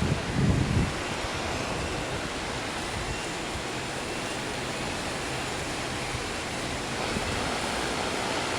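Steady hiss of heavy rain and wind, with low wind buffeting on the microphone in the first second.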